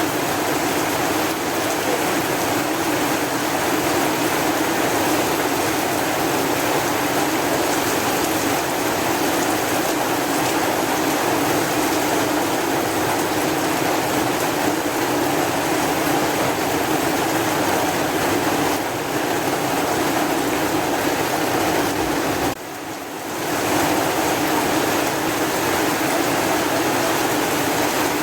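Steady rain falling, an even wash of water noise that briefly drops away for about a second roughly three-quarters of the way through.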